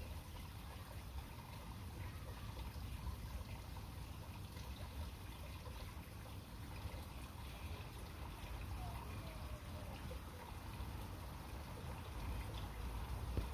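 Faint water trickling at a small pond over a steady low rumble.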